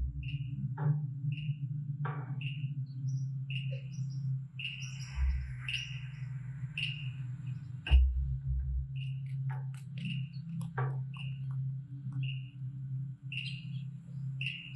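A small bird chirping over and over, a short high note a little under twice a second, over a steady low hum. Scattered clicks, with one sharper knock about eight seconds in.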